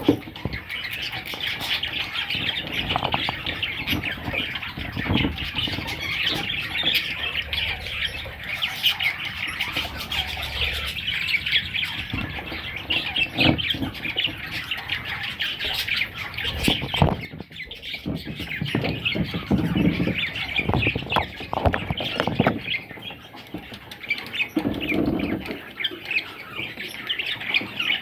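Budgerigar chicks giving continuous raspy, squawking begging calls, with occasional low thuds.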